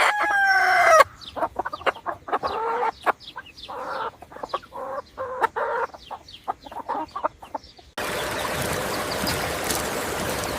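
Chickens clucking: a run of short, choppy clucks and calls from a flock of hens. It opens with a brief gliding call and gives way about eight seconds in to a steady hiss.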